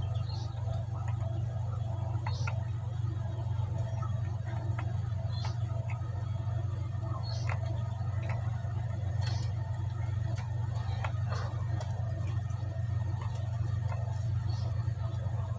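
Steady low hum under scattered light clicks and ticks, at irregular spacing, from hands working braided PE fishing line into a bird tether.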